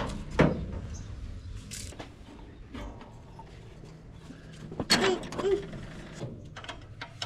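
Knocks and clunks of workshop handling, with a low rumble under the first few seconds. The sharpest knocks come about half a second in and again about five seconds in.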